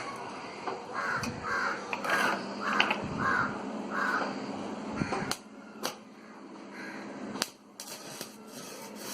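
A bird calling about seven times in quick succession, roughly two calls a second, followed by three sharp knocks.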